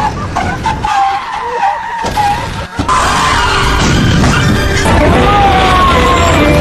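Vehicle tyres skidding and squealing on the road, with pitched squeals sliding up and down, over background music.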